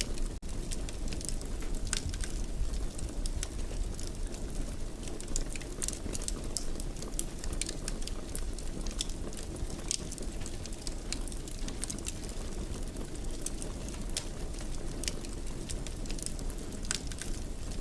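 Wood fire burning in a fireplace: a steady low rush of flame with frequent small, sharp crackles and pops scattered throughout. The sound drops out for an instant just under half a second in.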